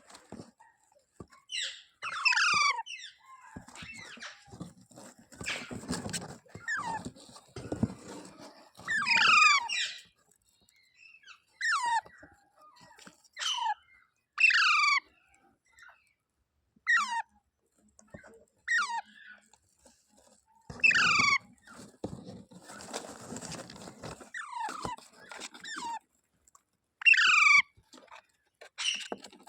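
Indian ringneck parrot giving short, loud calls that slide steeply down in pitch, one every second or two, with quieter chattering between them.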